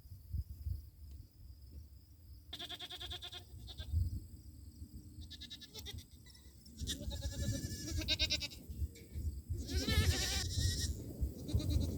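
Goats bleating: about five wavering calls, the later ones longer and louder, over a low rumble.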